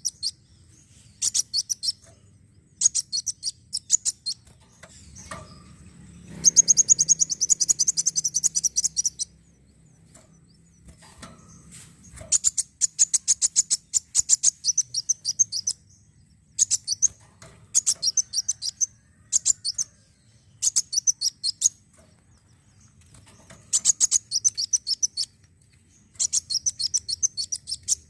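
Kolibri wulung, a sunbird, singing: bursts of rapid, high-pitched chirping trills lasting one to three seconds, repeated again and again with short pauses between them.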